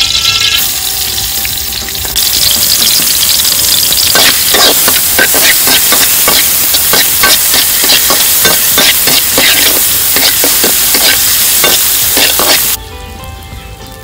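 Chopped shallots and garlic sizzling loudly in hot oil in a steel wok, while a metal ladle scrapes and knocks against the pan several times a second as they are stirred. The sizzle cuts off suddenly near the end.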